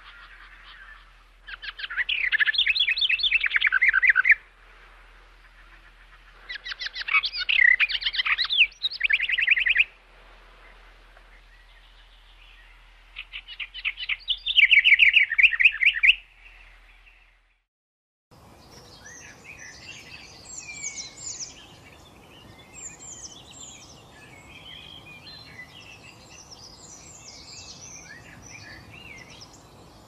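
Songbird singing in three loud trilled phrases of a few seconds each, every phrase a rapid run of repeated chirps. About 18 seconds in, after a moment of silence, it gives way to a steady outdoor hiss with many scattered chirps and twitters from several birds.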